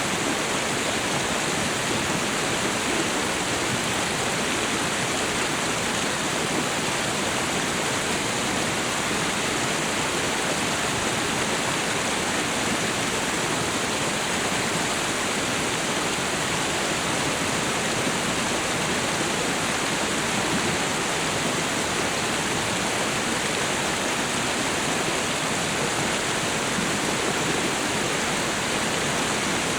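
Waterfall and river water rushing: a steady, even roar of falling water that does not change.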